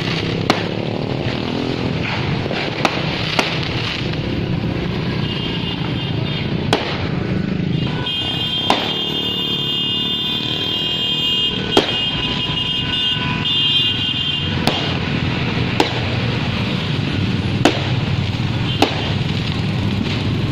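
New Year fireworks going off over a steady outdoor din, with sharp single bangs every second or two, about ten in all. A shrill held tone sounds for several seconds midway.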